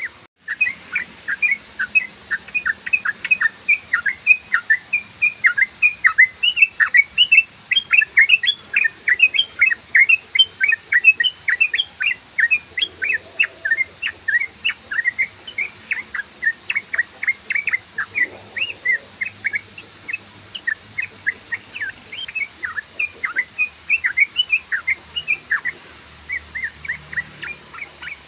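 Yellow-vented bulbul (trucukan) singing its rapid, run-on 'ropel' chatter: a continuous stream of short, bubbly, down-slurred notes, several a second.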